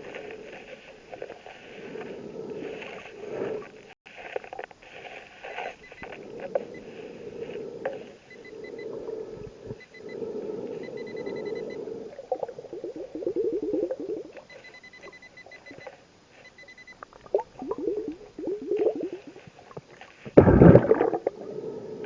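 Underwater sound of a scuba diver breathing through a regulator, with bursts of exhaled bubbles and the loudest bubble rush near the end. Faint short trains of high beeps come through a few times in the middle.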